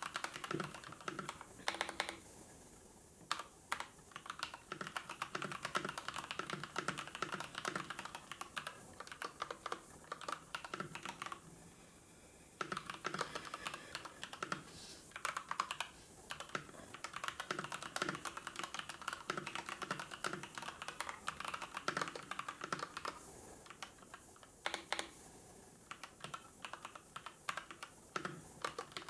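Typing on a computer keyboard: fast runs of keystrokes, broken by short pauses three times.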